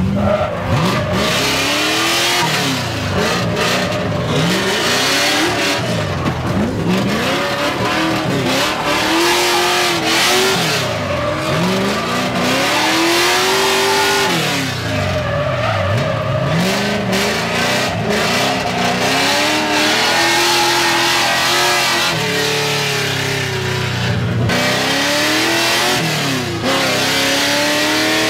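LS V8-swapped BMW E46 drift car driven hard, its engine revving up and falling back again and again every few seconds, with tyres skidding and squealing through the slides.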